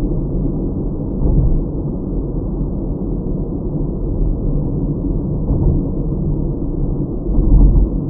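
Steady low rumble of a car's engine and tyres on the road, heard from inside the cabin by a dash cam, with two brief louder low bumps about a second in and near the end.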